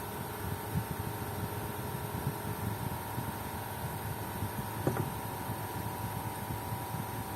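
Steady low mechanical hum with a faint high whine, like a running fan or similar small machine, and one light knock about five seconds in.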